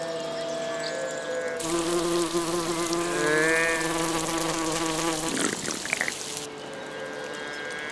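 Insect wing buzz, a steady drone, with water pouring and splashing from a fountain spout. The water starts about two seconds in and stops about six and a half seconds in.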